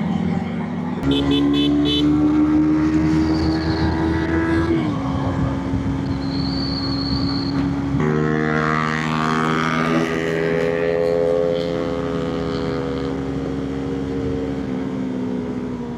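Motorcycle engine running under way, its pitch climbing steadily for a few seconds then dropping sharply about five seconds in as a gear is changed; about eight seconds in the pitch steps up again and holds fairly steady.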